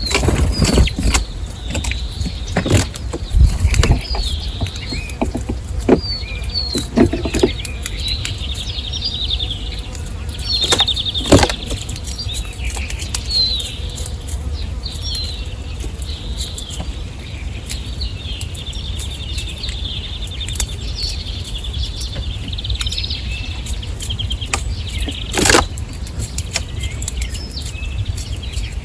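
Small birds at a garden feeder chirping and twittering, with wings fluttering and scattered sharp knocks, the loudest near the middle and towards the end.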